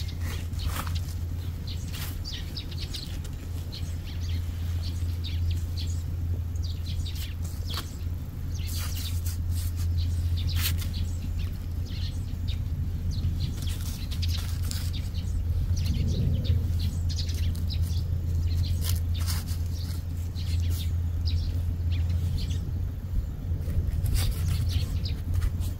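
Small birds chirping, short scattered calls over a steady low hum.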